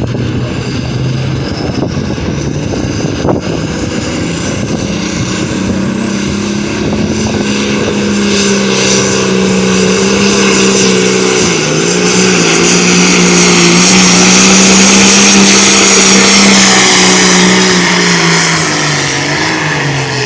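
Farm tractor engine in a tractor pull, revving up and held at high revs under load as it pulls the sled, getting louder as it comes closer. Its pitch sags briefly about twelve seconds in and drops back to idle near the end.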